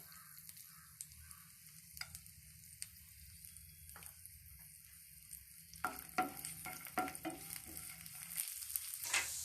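Chopped garlic and cashew nuts sizzling in hot oil in a pan, with a steady hiss. The pan is stirred with occasional scrapes and taps, which come more often in the last few seconds.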